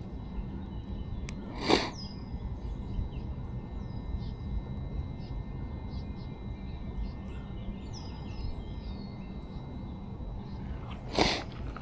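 Birds chirping, short falling calls repeated over a steady low outdoor rumble. A brief whoosh comes about two seconds in and another near the end.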